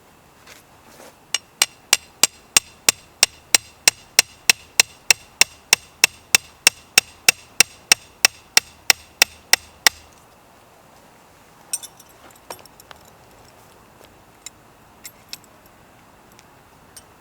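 Rapid, evenly spaced hammer-like strikes, about three a second for some eight seconds, each with a bright, ringing edge. A few scattered lighter knocks and clinks follow.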